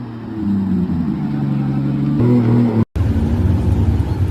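Toyota Supra engine accelerating, its note rising and stepping up in pitch. It cuts off abruptly about three seconds in, and a second engine takes over, running steadily with a rougher, deeper note.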